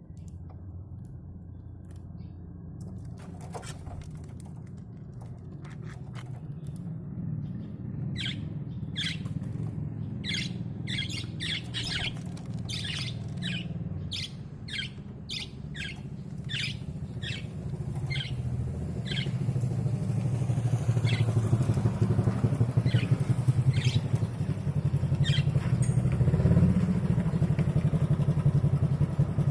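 Budgerigar giving a run of short, quick chirps, several a second for a stretch, over the steady low rumble of an engine running close by that grows louder about two-thirds of the way through.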